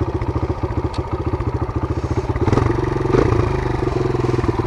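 Kawasaki KLX140 dirt bike's single-cylinder four-stroke engine running with an even beat, revving up briefly about halfway through as the throttle is opened.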